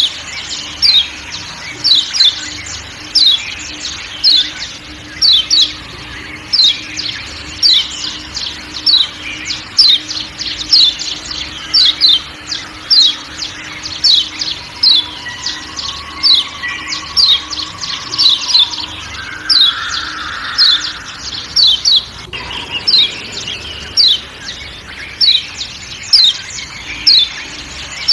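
Kecial kuning (Lombok yellow white-eye) repeating sharp, downward-sweeping 'ciak' calls, about one or two a second and often in pairs, over a faint steady low hum and soft forest background.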